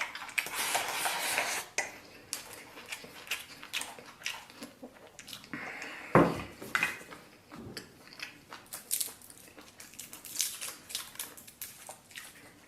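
Eating at a table: utensils clinking and scraping against a bowl, with chewing, and one louder knock about six seconds in.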